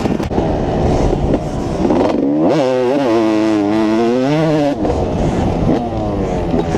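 Dirt bike engine revving under throttle on a motocross track, its pitch climbing and falling again and again. The clearest climb comes about two and a half seconds in and drops off near five seconds.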